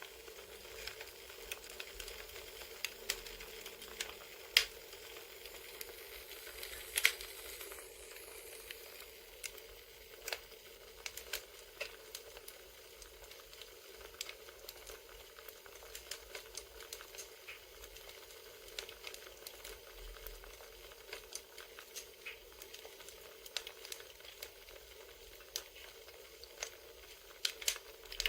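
Campfire crackling, as from an ambient wood-fire sound track: a steady hiss with irregular pops and snaps, two of them louder about four and a half and seven seconds in.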